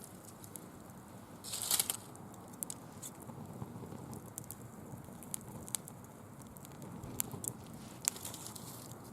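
Small bonfire crackling with scattered sharp pops, fed with dry fallen leaves that crinkle as they burn; a brief louder crinkling rustle comes about a second and a half in.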